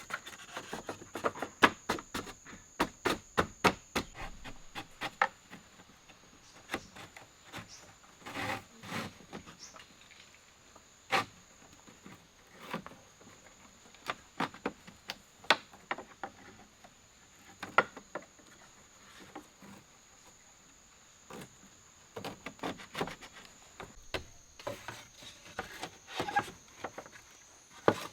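Wood being worked by hand: irregular sharp clicks, knocks and rubbing, thick at the start and again near the end, over a steady high insect drone.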